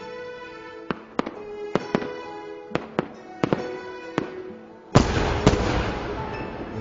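Fireworks going off over music: a series of sharp bangs for the first few seconds, then a much louder burst about five seconds in followed by dense crackling, with another bang during it.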